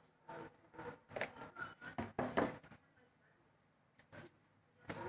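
A spoon knocking and scraping against a container and bowl as salt is scooped in, about a dozen short knocks in the first three seconds, then a pause, then a few more near the end.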